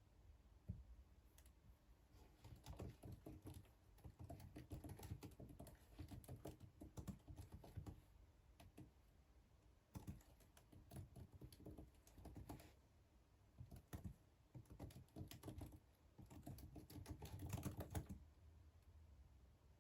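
Faint typing on a computer keyboard: runs of rapid key clicks lasting a few seconds each, broken by short pauses.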